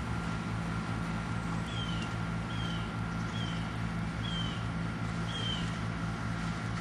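A bird calling: a short, high chirp that falls in pitch, repeated five times about once a second, over a steady low hum.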